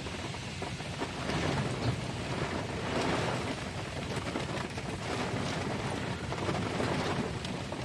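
Heavy storm rain and gusting wind, heard from inside a truck, with a steady low rumble underneath; the rain and wind surge louder in gusts about a second and a half, three and seven seconds in.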